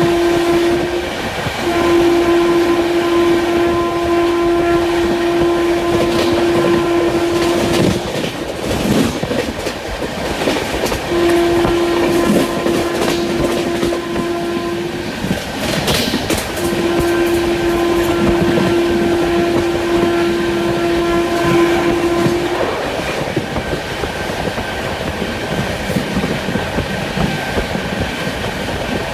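A train's horn sounding four long blasts, the longest about six seconds each, over the steady rumble and clickety-clack of the coaches running on the track. The last blast ends about three quarters of the way through, leaving only the running train.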